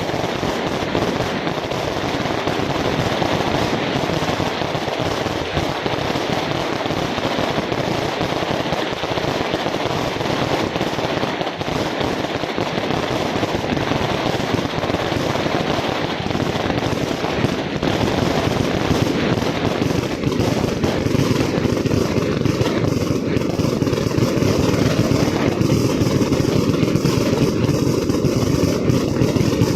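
Fireworks and firecrackers going off in a dense, unbroken crackle of rapid pops; about twenty seconds in, the sound turns heavier and lower.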